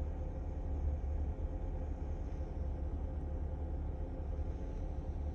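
Skoda Octavia A7 1.8 with a DSG gearbox: a steady low rumble with a thin, steady whine over it. This is the howl the owner is trying to track down.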